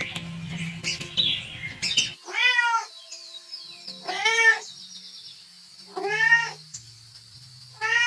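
Domestic cat meowing four times, about two seconds apart, each meow rising and then falling in pitch, over background music.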